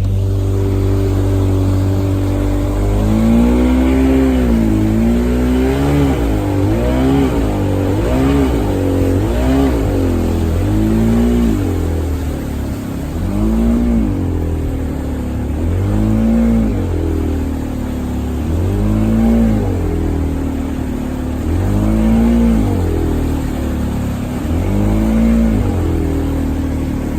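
Speedboat engine running at speed, steady for a few seconds, then its revs rising and falling about every two to three seconds as the hull rides over waves.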